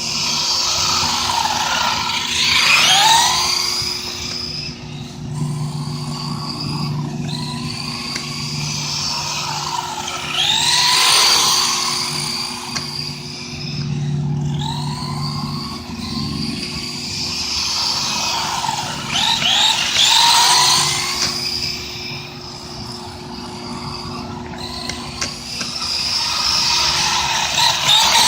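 The stock brushed electric motor and drivetrain of a Valuehobby Wildcat RC short course truck on a 2S LiPo, whining higher as the truck speeds up and dropping as it slows. The whine comes and goes in repeated bursts every few seconds.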